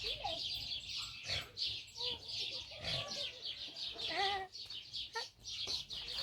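Many birds chirping steadily, with a few lower calls now and then, such as from a flock of poultry or small caged birds.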